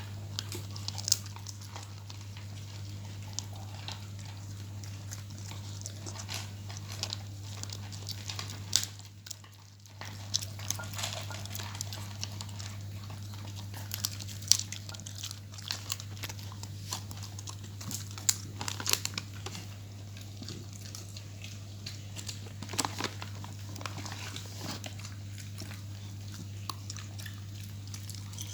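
A dog chewing and crunching its food, with many short sharp clicks and knocks throughout, over a steady low hum.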